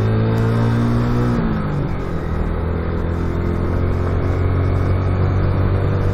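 Motorcycle engine running under way with wind rush. Its revs drop about a second in, then hold steady.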